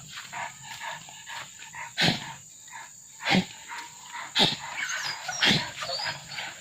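Hunting dog barking repeatedly, four barks about a second apart, each falling in pitch.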